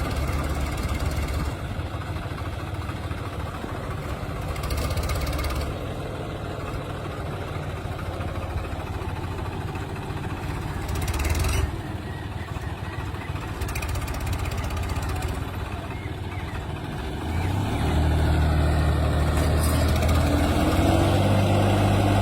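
Tractor engine running steadily, getting louder about seventeen seconds in, with its pitch rising near the end.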